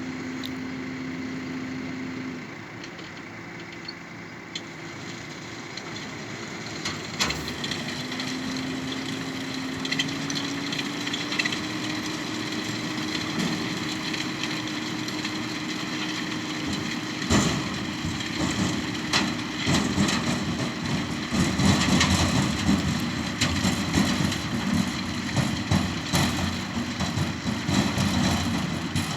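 New Holland T6 tractor engine running, easing off briefly and then rising in pitch about eight seconds in and holding there. From a little past halfway a dense clatter of hard knocks joins it: sugar beet tumbling and knocking together.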